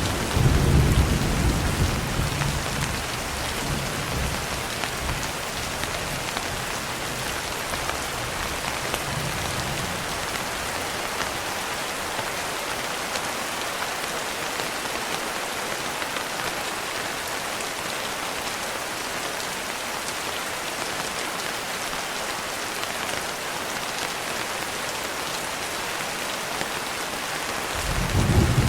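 Steady rain falling, an even hiss. A low thunder rumble fades out over the first several seconds, and a fresh rumble of thunder swells in near the end.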